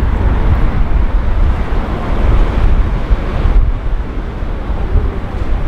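Wind buffeting the microphone, with breaking sea surf behind it.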